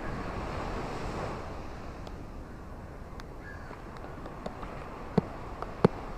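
Ocean waves washing ashore: a wash of surf that eases off after about a second. Scattered sharp clicks or knocks follow, two of them louder near the end.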